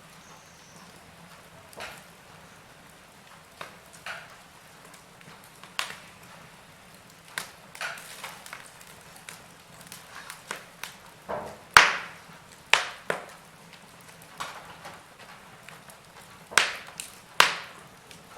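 Wood fire crackling: burning logs giving irregular sharp pops and snaps over a soft low hiss, the loudest pop about twelve seconds in and a cluster of strong ones near the end.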